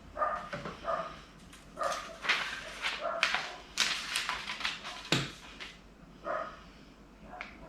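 Small dog, a dachshund, barking and yipping in short, repeated bursts.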